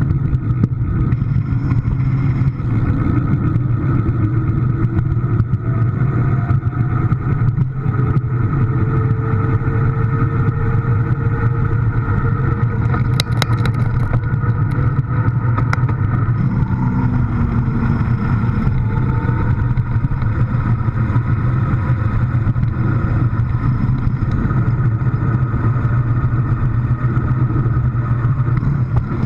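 A vehicle engine running at a steady low drone throughout, with faint slowly rising and falling whines above it and a brief clatter of clicks about halfway through.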